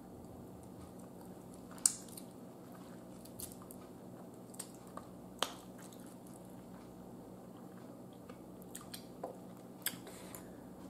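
A person chewing roasted chicken wing close to the microphone: soft chewing with scattered sharp mouth clicks and smacks, the loudest about two seconds in, again past the middle and near the end, over a low steady hum.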